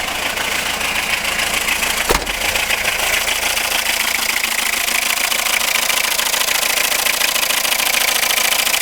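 Citroën Berlingo engine idling steadily while still cold, with a fast, even clatter. A single sharp knock comes about two seconds in.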